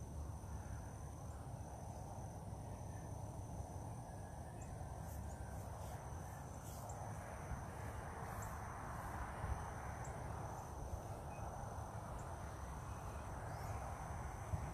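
Insects trilling steadily in several high-pitched tones over a low outdoor rumble.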